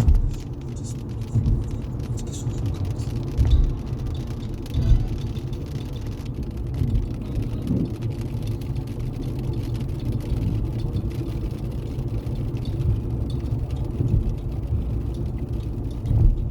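Road noise inside a moving car: a steady low rumble of engine and tyres at motorway speed, with a few louder thumps near the start and again around three and five seconds in.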